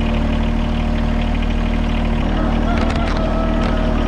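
John Deere 1023e compact tractor's three-cylinder diesel engine running steadily at low speed, with a faint high tone drawn out in the second half.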